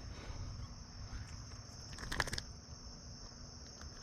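Steady high-pitched insect trill, with a brief cluster of clicks and handling noise about two seconds in.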